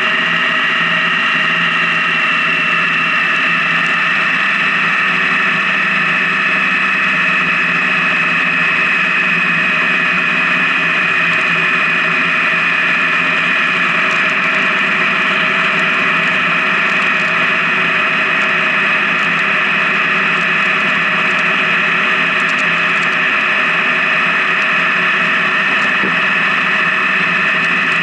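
Honda Gold Wing touring motorcycle cruising at steady highway speed: an even engine and road drone with a high whine whose pitch sinks slightly over the first dozen seconds, then holds.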